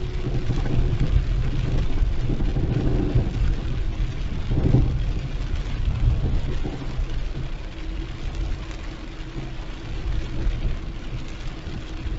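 Car driving through heavy rain: a steady low rumble of engine and tyres on the wet road under an even hiss of rain, with a brief louder swell about four and a half seconds in.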